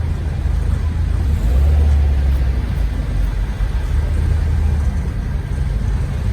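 A car's engine rumbling low as it passes, swelling about a second and a half in and easing off around five seconds.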